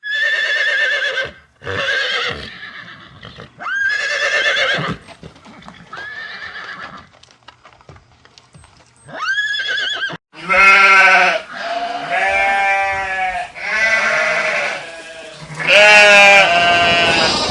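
Farm animal calls: several drawn-out calls, each about a second long, over the first ten seconds. Then, after a cut, a run of louder, quavering bleats.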